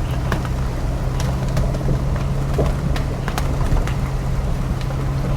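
Ford Bronco's engine running at a steady low drone as it climbs a dirt road in four-wheel high, with scattered sharp ticks and knocks throughout.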